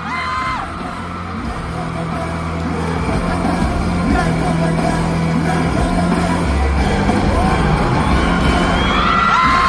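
Live band playing a K-pop dance song, with a steady bass line and singing, heard loud through the crowd. High-pitched fan screams are held briefly near the start and again near the end.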